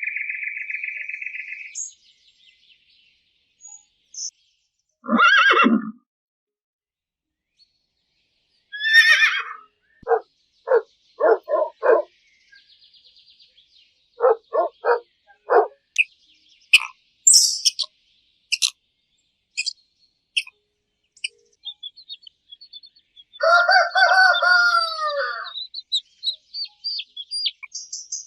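Chickens making a run of short clucks and a rooster giving a long crow, among scattered small-bird chirps. The calls come in separate bursts with silent gaps between them.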